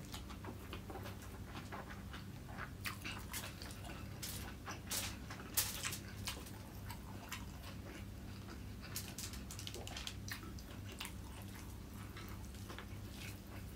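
Close-miked mouth sounds of a man chewing fried rice he eats by hand: irregular soft wet clicks and smacks, loudest about five to six seconds in, over a faint steady low hum.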